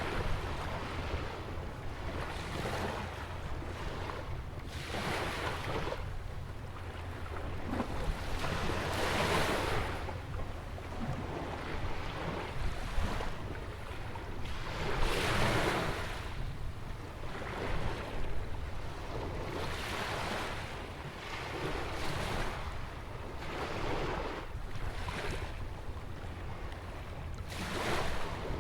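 Ocean surf breaking and washing ashore, a hissing wash that swells and fades every two to four seconds, over a steady low rumble of wind on the microphone.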